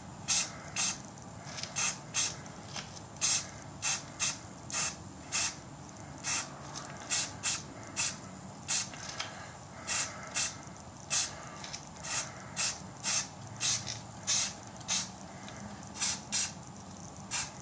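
Aerosol spray can of Rust-Oleum 2X Ultra Cover paint sprayed in short hissing bursts, about two a second at uneven spacing: light mist coats dabbed onto a truck's wheel well.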